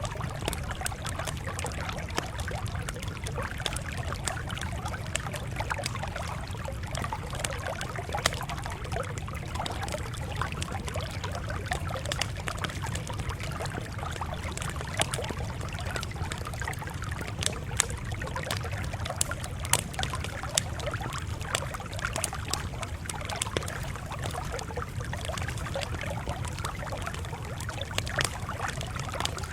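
Campfire crackling, with frequent sharp pops scattered over a steady low rumble.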